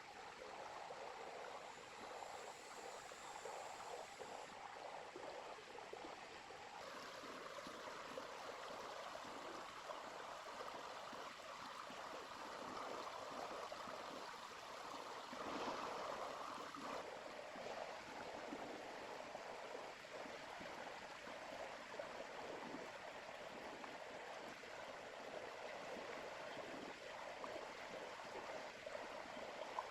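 A small river's water flowing steadily over stones, a faint, even rushing and gurgling that swells a little midway.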